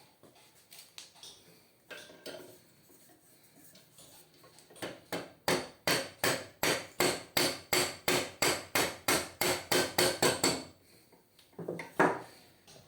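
A steady run of light hammer taps, about four a second with a few scattered knocks before and one after, driving a replacement 608Z ball bearing along an air-conditioner fan motor's shaft until it seats against its retaining clip.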